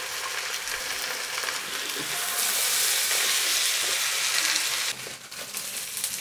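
Vegetables, chicken, prawns and fried egg sizzling in hot oil in a pan as a stir-fry. The sizzle grows louder about two seconds in and drops off sharply about five seconds in.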